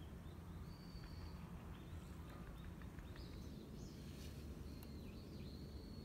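Small birds calling over a steady low rumble, with thin high whistles and short chirps, some dipping down in pitch.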